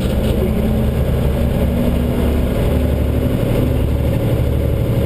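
Fire department brush truck's engine running steadily at a low, even pitch.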